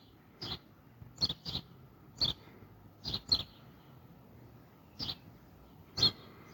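Birds chirping: about eight short, separate chirps, unevenly spaced, some coming in quick pairs.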